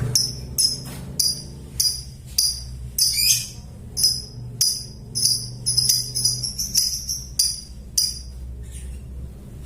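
Lovebird calling: short, sharp, high-pitched chirps repeated about twice a second, stopping shortly before the end, over a steady low hum.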